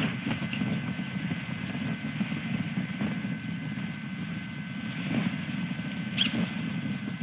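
Steady low outdoor rumble picked up by a nest-camera microphone, with a faint constant electronic whine, and a single short high bird chirp about six seconds in.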